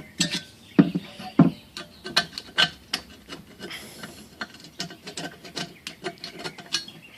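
Screwdriver scraping built-up carbon off a lower intake manifold: a run of short, irregular scrapes and clicks.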